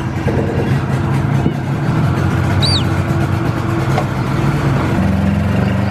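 An engine running steadily, its low hum shifting pitch about five seconds in, with a single short bird chirp near the middle.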